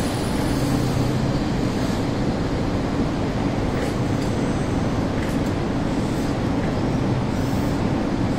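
Passenger train's last coaches rolling slowly past on the track as the train draws in to stop, a steady rumbling noise from the wheels and running gear.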